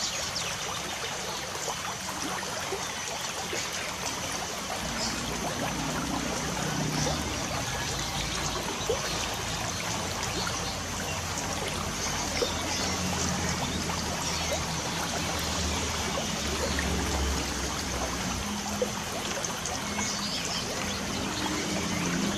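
Steady light rain, a continuous hiss of drops, with faint bird chirps above it. From about five seconds in, faint low sustained tones sit underneath.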